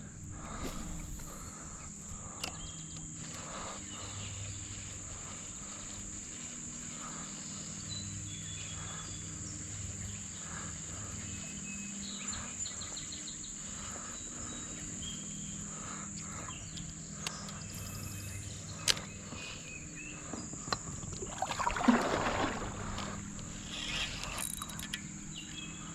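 Insects trilling steadily at a high pitch over a quiet background. Scattered faint clicks and knocks, and a brief louder rustling noise about 22 seconds in.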